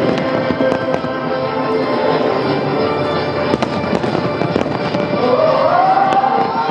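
Fireworks popping and crackling in quick succession over loud music.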